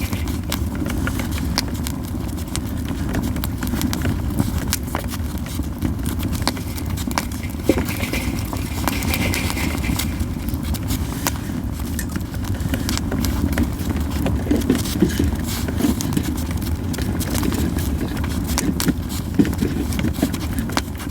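Japanese yew wood burning in a campfire, crackling steadily with frequent sharp, irregular pops over a constant low rumble.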